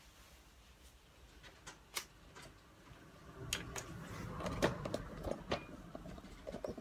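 Small objects being handled: a few separate sharp clicks, then from about three and a half seconds in a louder stretch of clattering clicks and rustling.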